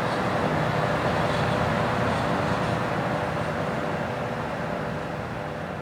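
Aircraft engines droning steadily and slowly fading away.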